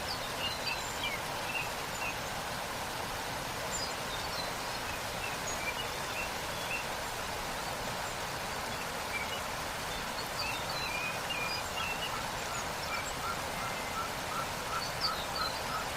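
Waterfall rushing steadily, with scattered bird chirps over it. In the last third a bird gives a run of short repeated notes, about two or three a second.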